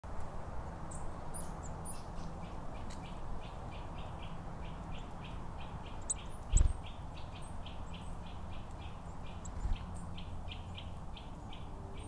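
Forest songbirds calling: one bird repeats a short note about three times a second, with scattered higher chips from others. A dull low thump sounds about six and a half seconds in, and a smaller one near ten seconds.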